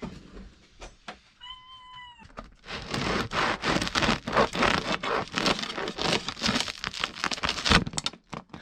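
A cat meows once, about a second and a half in. Then a bread knife saws through the crust of a freshly baked loaf with a crackling, scraping sound, and there is a thump near the end.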